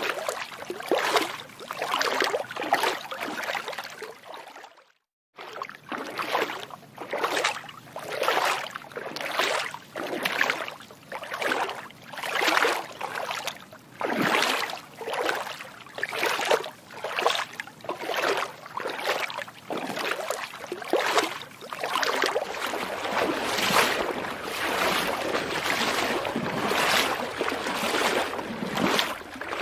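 Feet wading through shallow water, a splash with each step about once a second. The sound cuts out briefly about five seconds in, then the steps resume.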